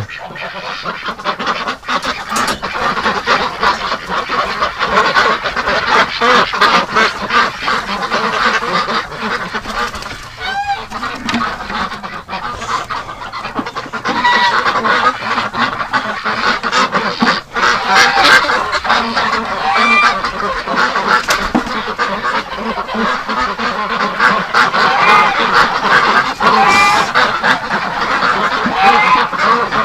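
A large flock of domestic ducks calling all at once: a continuous din of quacks and honking calls. Drawn-out calls that rise and fall in pitch stand out from about 14 seconds in.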